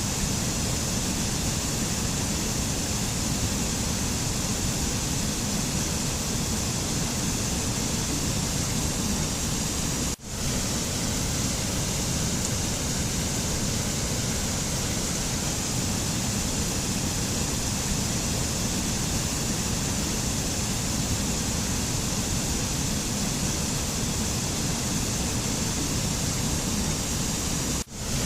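Steady, even rushing noise of a mountain nature-sound recording, with no music or voice. It drops out briefly twice, about ten seconds in and again near the end.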